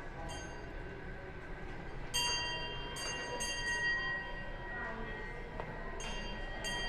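A metal bell struck several times: a quick run of strikes about two seconds in and more near the end, each ringing on briefly with a bright, clear tone.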